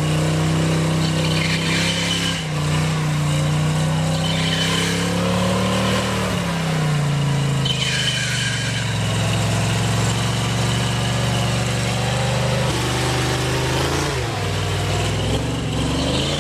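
Modified off-road 4x4 truck's engine running hard under load as it crawls through an obstacle, its revs rising and falling several times: up around the middle, dipping near the end, then climbing again.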